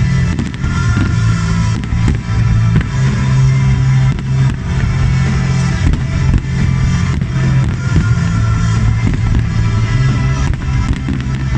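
Fireworks display: repeated sharp firework bangs over loud music with a held, heavy bass line.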